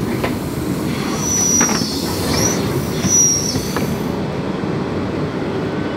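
Electric passenger train heard from inside the carriage, running with a steady rumble as it slows to arrive at the terminus, its wheels giving two short high-pitched squeals about a second and three seconds in.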